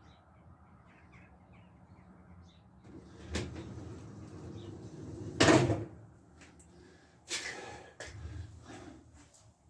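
Handling noises in a workshop: a knock, then a louder clatter about halfway through and another knock soon after, like a cupboard, box or parts being moved while searching for clips.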